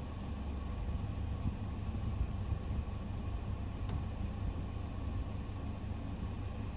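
Portable air conditioner running: a steady low hum of compressor and fan with a few constant whining tones above it.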